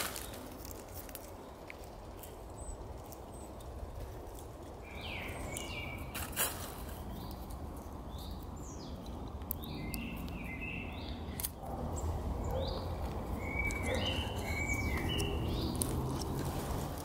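Small birds chirping repeatedly in woodland, short quick calls coming and going over a steady low rumble that grows louder about two-thirds of the way in. A single sharp click about six seconds in.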